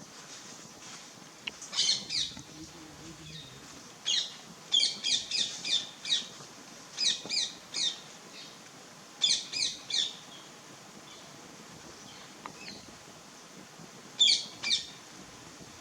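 A bird calling in quick runs of two to five sharp, high, squawky notes, a run every couple of seconds, with short pauses between.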